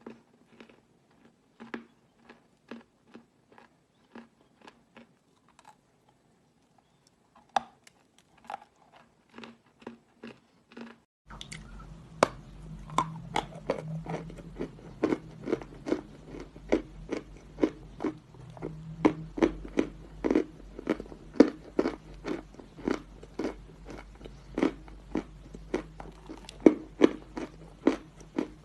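Edible chalk being chewed: crisp crunches at a steady pace of about two a second. About a third of the way in a low steady hum comes in and the crunches become louder.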